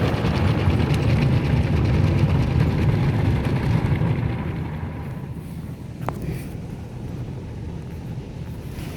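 Rotating cloth brushes of a soft-touch tunnel car wash scrubbing over the car, heard from inside the cabin: a loud, rapid slapping rumble that fades away about four to five seconds in, followed by a single short click.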